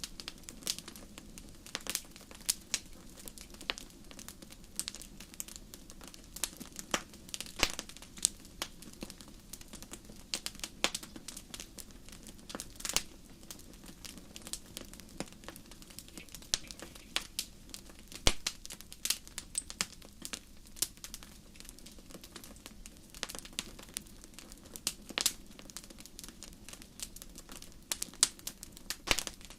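Wood campfire crackling: irregular sharp pops and snaps, several close together at times, over a soft steady rush of burning.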